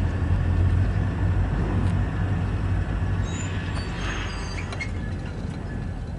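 Steady low rumble of diesel-electric freight locomotives, BNSF SD40-2s with EMD two-stroke V16 engines, slowly easing in level. A few short high squeaks come about halfway through.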